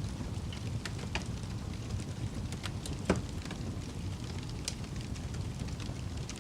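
Campfire burning: a steady low rumble of flames with scattered crackles, and one louder pop about three seconds in.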